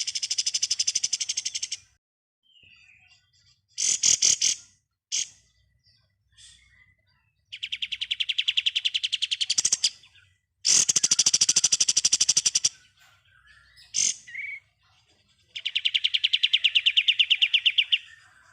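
Kapas tembak songbird singing its rapid machine-gun 'ngebren' rattle: five fast, evenly pulsed high trills, each one to two and a half seconds long, with short chirps in the gaps between them.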